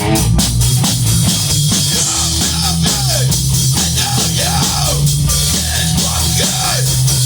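A rock band plays an instrumental passage of the song, with drums, bass and electric guitar. A lead line swoops up and down in repeated arcs over a steady bass and drum beat.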